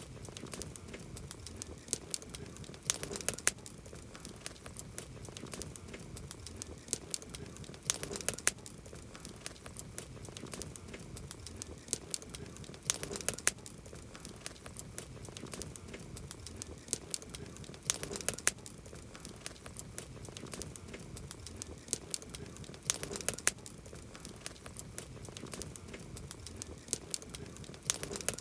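Campfire crackling, its burning wood giving off a steady run of small snaps with louder clusters of sharp pops about every five seconds.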